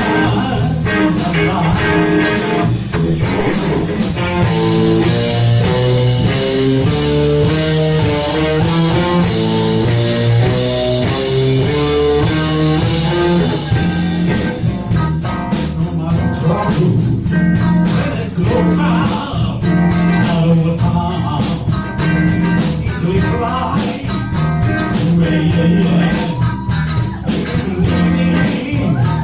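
Live blues-rock band playing an instrumental break: a guitar lead line over bass and a steady drum beat.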